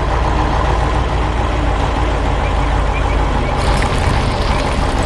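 Heavy vehicle engine running with a steady low rumble, the engine sound of an animated construction machine. A brighter hissing noise joins it about three and a half seconds in.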